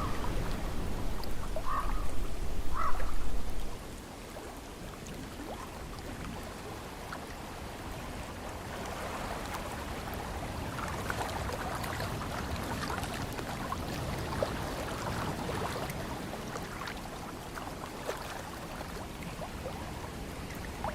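Ocean surf and wind: a deep rumble with a louder wash for the first few seconds, which cuts off suddenly, then a softer steady hiss of water with fine crackling.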